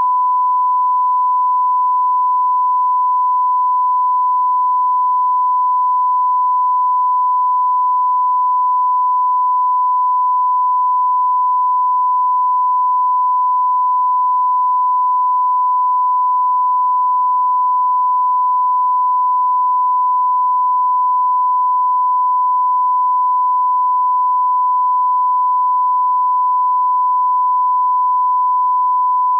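A steady broadcast test tone at about 1 kHz, one pure pitch held without a break.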